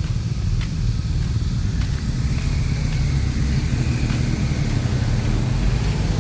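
Street ambience with a steady low rumble of road traffic, and light footsteps at a walking pace.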